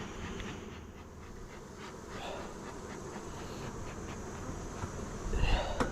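Honeybees buzzing in a steady hum around an open hive, many bees in the air after being shaken out of a feeder. Near the end a louder low rumble and a thump.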